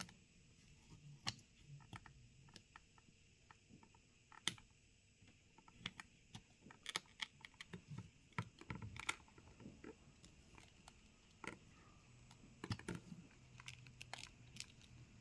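Faint, irregular small clicks and ticks of a thin plastic pry tool working under a phone's glass panel, prying it off the frame.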